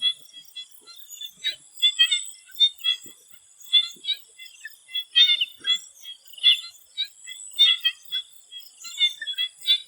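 Swamp frogs calling in a chorus of short, irregular, overlapping calls, several a second. A steady high-pitched tone runs behind them.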